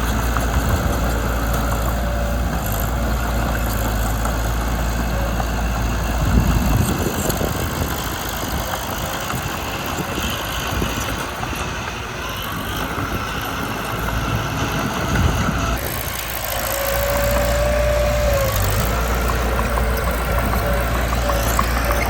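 Mitsubishi BD2 bulldozer's diesel engine running steadily with a low hum, dipping a little in the middle. A brief high squeal sounds about seventeen seconds in.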